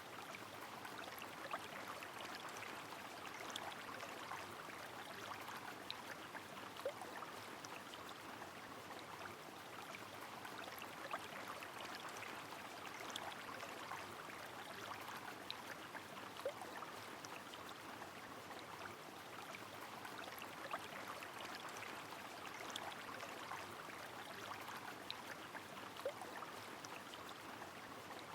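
Steady rush of a flowing river with rain falling, dotted with small scattered drop ticks.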